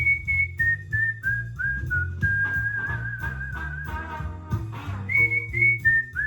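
A whistled tune for training cockatiels to sing: short stepped notes falling in pitch, a long held note with a slight waver, then the phrase starts again near the end, over a backing with a steady low beat.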